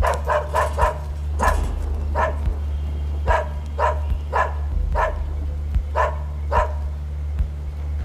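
Dog barking repeatedly: a quick run of four barks, then single barks every half second to a second, about a dozen in all. They are alarm barks at a leopard on the other side of the gate. A steady low hum lies underneath.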